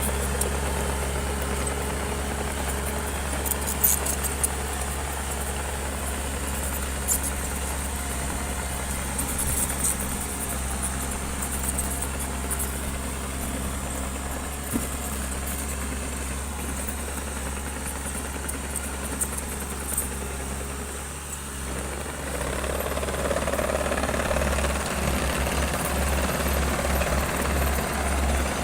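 Bulldozer's diesel engine running with a steady deep drone and a few sharp metallic clicks in the first third. About two-thirds of the way through it gets louder and rougher.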